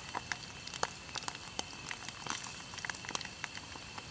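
Eel pieces frying in hot oil in a pan: a steady sizzle broken by irregular sharp pops and crackles as the oil spatters.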